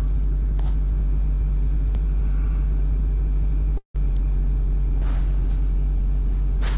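A vehicle engine running steadily, heard from inside the cab as a low, even hum. All sound cuts out for a split second about four seconds in.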